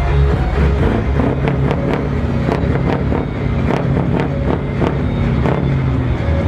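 Scania V8 diesel truck engine running with a steady low drone, with a run of sharp clicks through the middle.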